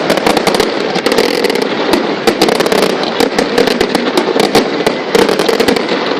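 Aerial fireworks crackling: a dense, unbroken run of many sharp pops and cracks close together.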